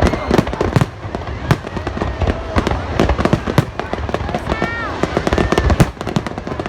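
Fireworks display: aerial shells bursting in quick succession, a dense run of sharp bangs and crackles with no let-up.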